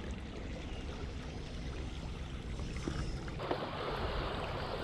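Small stream running: a steady rush of flowing water that turns louder and brighter about three and a half seconds in.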